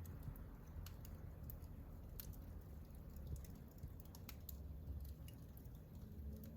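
Wood fire burning in a fireplace: a soft low rumble of flames with irregular small crackles and pops from the burning logs.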